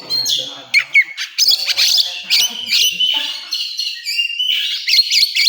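Oriental magpie-robin (kacer) singing a loud, fast, varied song of sharp whistles, quick glides and harsh notes.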